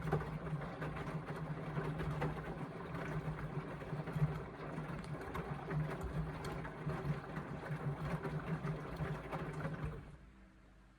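Indesit washing machine tumbling a full load in the wash phase: the motor turns the drum with a steady hum while wet laundry and water slosh and clatter inside. It stops about ten seconds in, the pause between tumbles.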